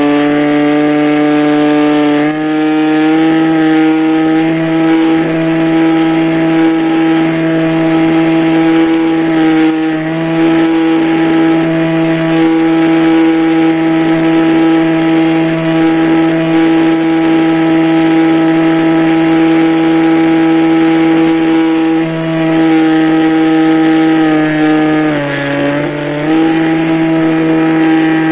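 Radio-controlled model airplane's motor running at a steady high pitch, stepping slightly up and down with the throttle, with a brief drop in pitch about 25 seconds in.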